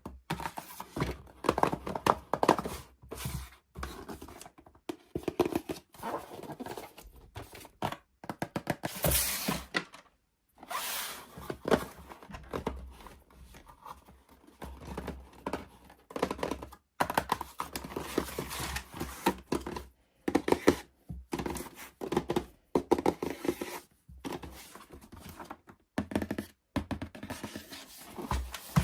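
Toy packaging being handled and opened: irregular knocks and scrapes with tearing and crinkling of cardboard and plastic.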